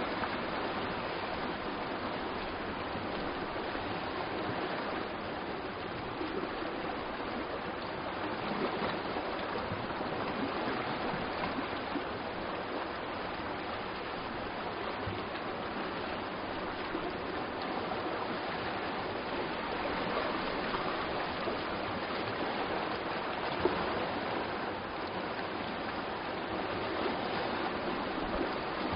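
Steady, even rushing of sea surf, with one brief sharp tick about three-quarters of the way through.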